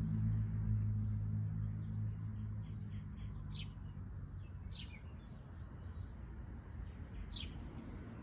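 Backyard birds chirping: three sharp, quickly falling calls and some fainter short twitters over a low outdoor background. A low humming tone of several pitches fades away during the first two seconds.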